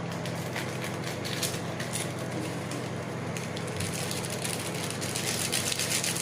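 Crinkly crackling of plastic instant-noodle seasoning sachets being handled and torn open: many small sharp crackles, busier over the last two seconds, over a steady low hum.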